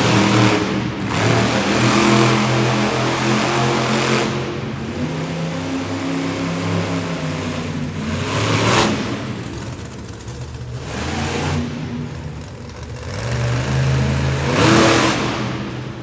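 Monster truck engine revving hard in repeated surges, its pitch rising and falling, with several short loud blasts of noise.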